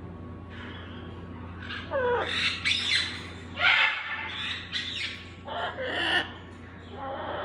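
Baby parrots squawking: a run of short, harsh calls, one sliding down in pitch, over a steady low hum.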